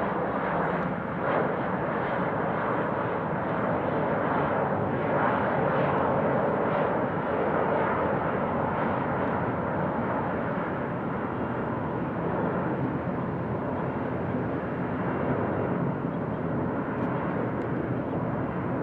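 Jet airliner engines running as a plane departs: a steady noise, a little louder about five to eight seconds in.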